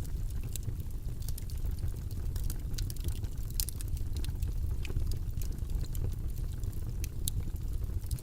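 Steady, deep, rumbling white-noise background with scattered light clicks over it, typical of keys or a pen at a desk.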